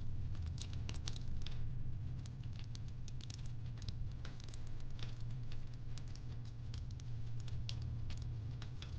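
Fireplace crackling: irregular sharp pops and snaps, several a second, over a steady low rumble.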